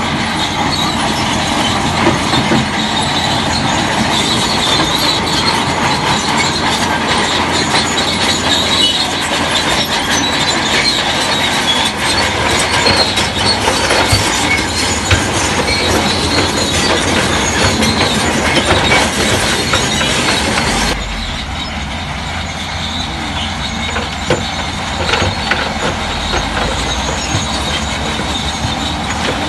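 Crawler bulldozer working, with its diesel engine running under load and its steel tracks clanking and squealing. The sound drops suddenly about two-thirds of the way through.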